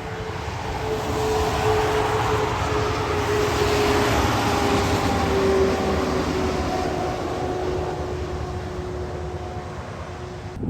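A heavy truck passing on a wet road. The tyre and spray hiss swells and then fades, under a steady engine or drivetrain note that slowly drops in pitch.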